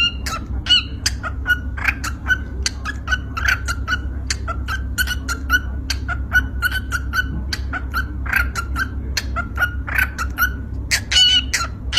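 Yellow pet lovebird calling with a rapid run of short, sharp chirps, several a second, over a steady low hum.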